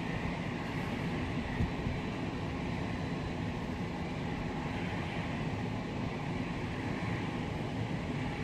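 Kintetsu 20000-series electric train running away down the line, a steady rumble of wheels on rail.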